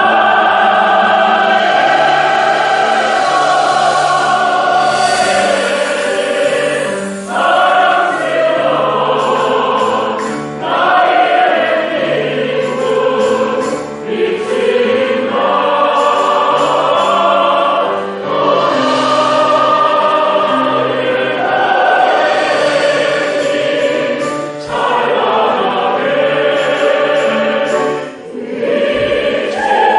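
A large group of voices singing a song together with instrumental accompaniment, in phrases of a few seconds each with short breaths between them.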